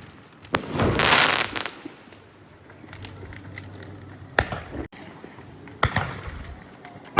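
Fireworks going off: four sharp bangs, about half a second in, past the middle, about six seconds in and at the very end. A second-long burst of dense noise follows the first bang.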